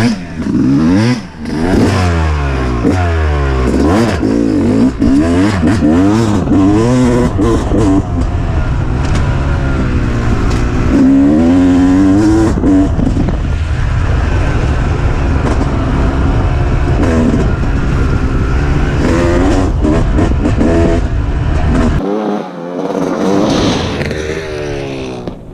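Two-stroke dirt bike engine revving hard, its pitch rising and falling over and over as the throttle is opened and shut. Near the end the deep low rumble drops away and the engine sound thins out.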